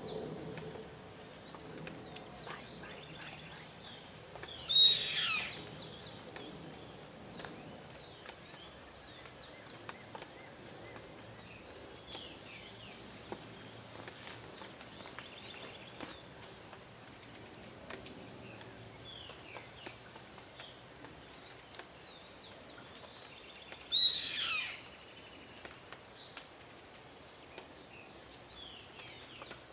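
Yellow-headed caracara giving two loud, short calls that fall steeply in pitch, about twenty seconds apart. Under them runs a steady, high insect drone with faint chirps from small birds.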